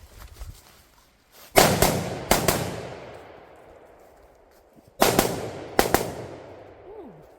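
Gunshots fired in quick pairs: two pairs about a second and a half in, then two more pairs about five seconds in. Each group rings out with a long fading echo.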